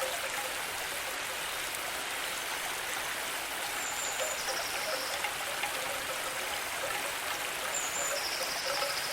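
Steady rush of running water, like a stream. Over it a short high call, a brief note then a pulsed trill, comes back about every four seconds.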